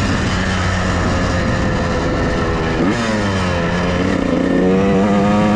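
Honda CR125R's two-stroke single-cylinder engine running as the bike is ridden, with a quick throttle blip about three seconds in; the pitch then drops and climbs again near the end as it accelerates, picking up sharply.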